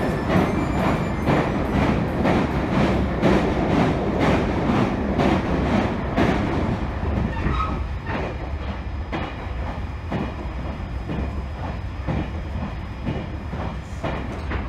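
Train wheels rolling over rail joints, heard from inside a moving passenger car: a steady rumble with a regular clickety-clack. It grows quieter about halfway through.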